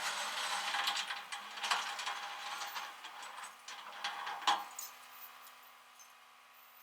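Rustling handling noise with scattered light clinks and knocks, stopping about four and a half seconds in, then a few faint ticks.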